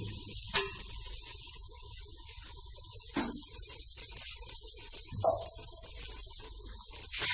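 Onion-tomato masala sizzling in oil in a metal pot, a steady hiss, with a metal spoon knocking against the pot a few times, the sharpest knock about half a second in.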